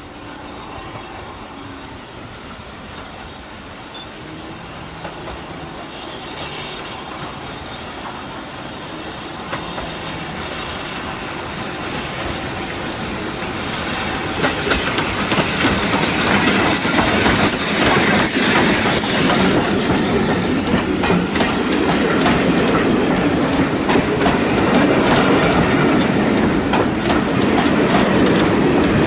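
Steam-hauled train approaching and passing close by. It grows steadily louder over the first half, then runs loud with wheels clattering over the rail joints.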